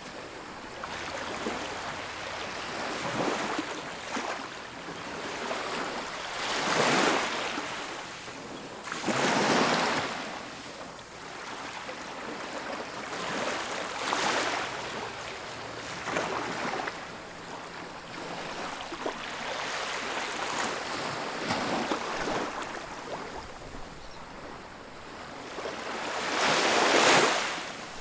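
Ocean surf on a beach: waves breaking and washing in, rising and fading every few seconds, with the biggest wave near the end.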